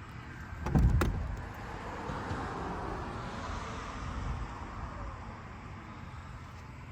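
Fisker Ocean power liftgate: a sharp clunk of the latch releasing about a second in, then the liftgate motor whirring steadily for several seconds as the hatch powers open, fading toward the end.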